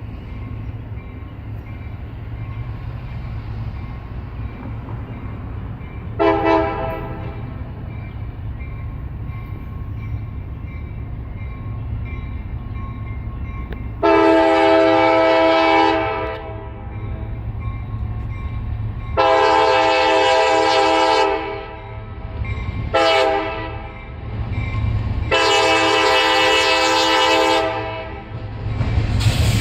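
Diesel locomotive horn sounding a chord of several tones: one short blast, then long, long, short, long, the grade-crossing signal. Beneath it runs the steady low rumble of the slow-moving CSX locomotives.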